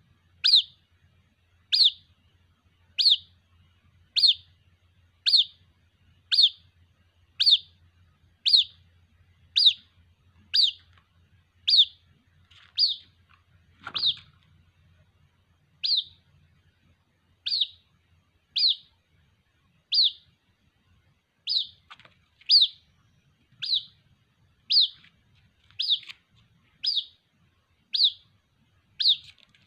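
White-breasted waterhen chick calling for its mother: a single sharp, high chirp that slides downward, repeated steadily about once a second.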